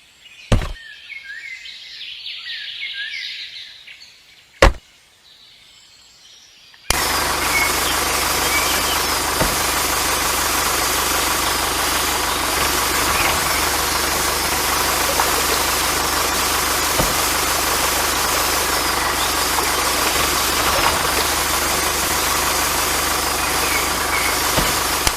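An engine running steadily, starting abruptly about seven seconds in after a few quieter seconds broken by two sharp clicks.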